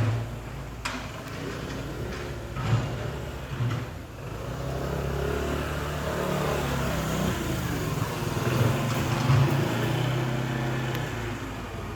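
An engine running, its low hum steady from about four seconds in, after a few knocks.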